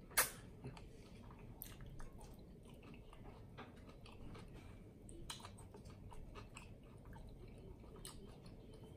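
Close-miked chewing of a mouthful of triple bacon cheeseburger, with wet mouth clicks and smacks scattered through. The sharpest click comes just after the start.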